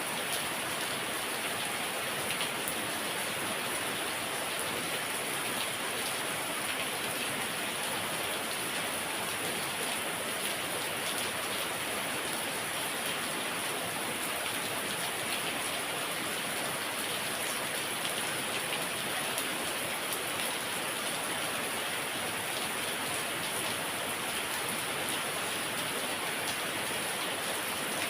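Heavy rain falling steadily: an even, dense hiss with scattered faint drop ticks.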